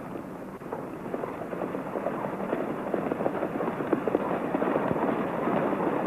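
Hoofbeats of horses galloping, a dense rapid clatter of hooves growing steadily louder as they approach.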